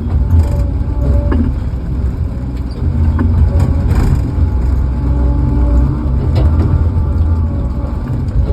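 An engine running steadily with a loud low rumble, with a few sharp clicks or knocks scattered through it.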